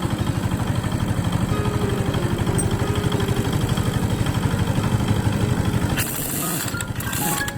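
Excavator's diesel engine running with a fast, even pulse. About six seconds in, the pulsing drops away and short bursts of hiss take over.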